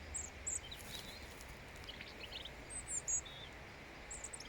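Robin singing close by: short clusters of high, thin notes, coming in several scattered phrases over a faint steady low rumble.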